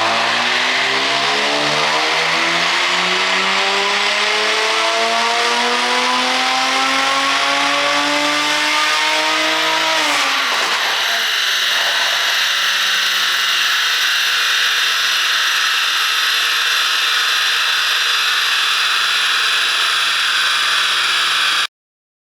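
Mercedes-Benz E450's turbocharged inline-six, ECU-tuned, making a full-throttle dyno pull: the engine note climbs steadily in pitch for about ten seconds, then the throttle snaps shut and the revs fall away sharply. A steady high whine and a low even hum carry on until the sound cuts off just before the end.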